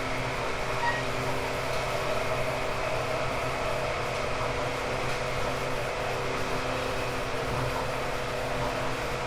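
Inside the passenger cabin of a JR East 189 series electric train's motor car, running at steady speed: the steady hum of its MT54 traction motors and gearing over wheel and rail noise.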